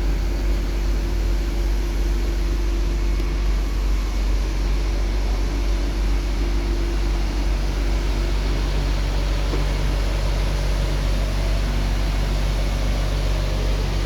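Inside a moving Scania K360IB city bus: the rear-mounted nine-litre five-cylinder diesel runs steadily under a deep rumble and road noise. A steady whine fades out about halfway through.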